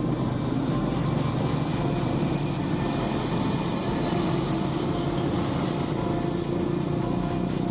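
Steady low vehicle engine drone with no sudden events.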